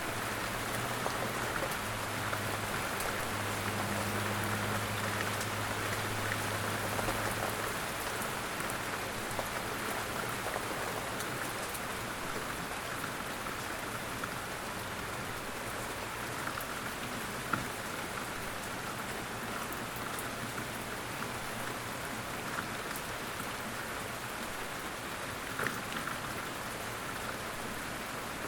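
Light rain falling in a forest: a steady hiss with scattered individual drops ticking. A faint low hum sits underneath for about the first eight seconds.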